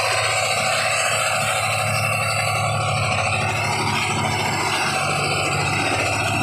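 Massey Ferguson 375 tractor's three-cylinder diesel engine running with a steady low rumble.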